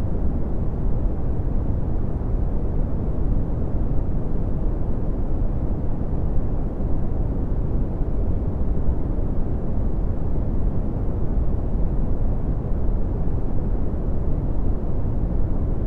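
Synthetic red (Brownian) noise: a steady, deep rumbling hiss, loudest in the bass and falling away toward the treble, with no changes or events.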